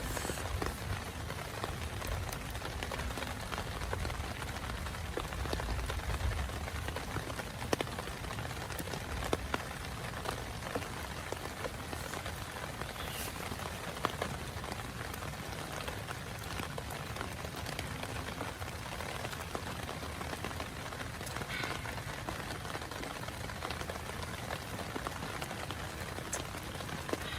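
Steady rain falling on a small tent, with many separate drops ticking sharply on the fabric. A low rumble sits under the rain for the first few seconds, then fades.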